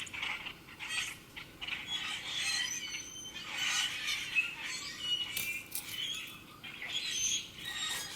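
Wild songbirds chirping: many short, high-pitched calls overlapping continuously.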